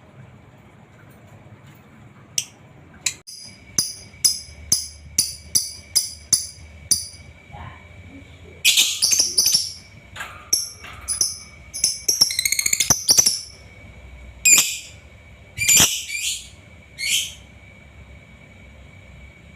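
Lovebird singing. First comes a run of about nine sharp, high chirps, about two a second. Then a fast chattering trill, then a few separate calls, and the singing stops about two seconds before the end.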